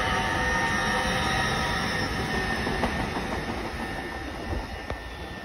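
LNER Azuma (Class 800-series) train running past and drawing away: a steady rush with a high whine that fades as it goes, with a couple of sharp wheel clicks over the rail joints.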